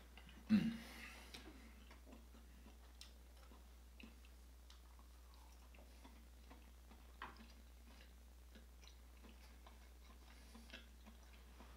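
Quiet mouth sounds of a man chewing crab meat with his mouth closed: sparse soft clicks and smacks, with one louder mouth sound about half a second in.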